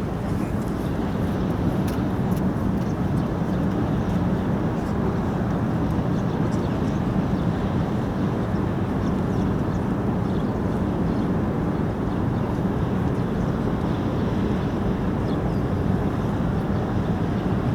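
Steady low rumbling noise that holds at an even level throughout, with no distinct events.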